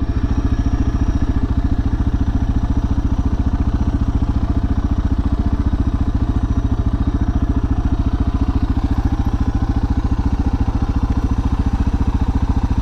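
Suzuki DR650's single-cylinder engine idling steadily, an even train of exhaust pulses with no change in speed.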